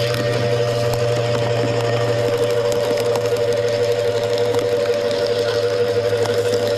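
Wood chipper running steadily at a constant pitch, with scattered faint ticks over the drone.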